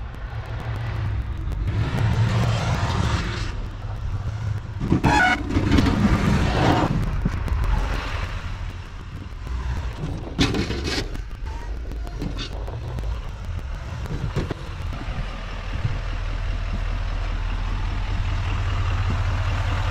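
Snow-plowing vehicle's engine running with a steady low hum, with louder noisy stretches about two seconds in, around five to seven seconds, and again near ten seconds.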